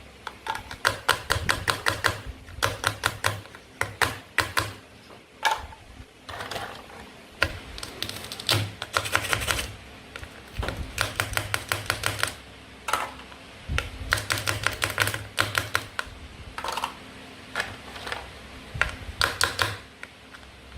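Toy play food and a toy knife clicking and tapping in quick clusters of sharp plastic clicks, with short pauses between them.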